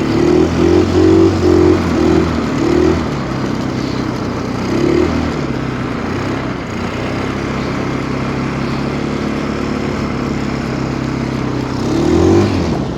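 Stels Kapitan long-track snowmobile engine running under load in deep snow. It is revved in several short pulses over the first few seconds, settles to a steady drone, then revs up again near the end.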